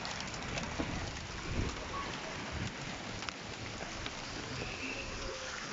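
Steady patter of hail and rain falling, with a few scattered ticks of hailstones striking.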